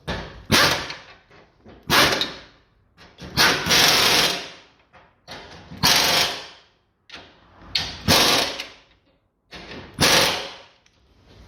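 Cordless impact wrench run in a series of short bursts, tightening the bolts of a Ford Focus mk2's new left engine mount.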